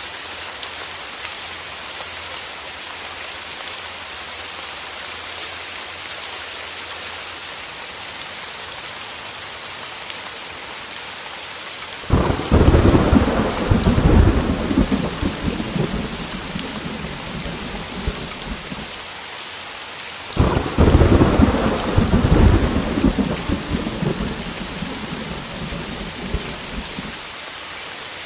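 Heavy rain hissing steadily on a window, with two rolls of thunder about halfway through and again near the end: each starts with a sudden loud crack and rumbles down over several seconds.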